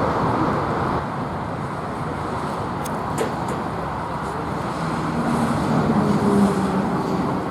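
Jet airliner engine noise by the runway: a steady low rumble with a faint hum that swells slightly about five seconds in.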